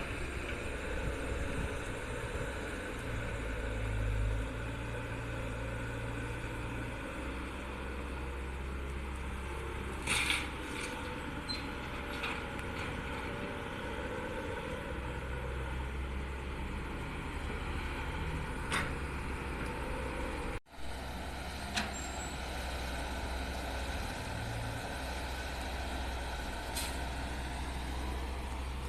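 Heavy diesel engine of earthmoving machinery running steadily while digging and loading laterite soil, with a few brief sharp clanks or hisses. The sound cuts out for an instant about two-thirds of the way through.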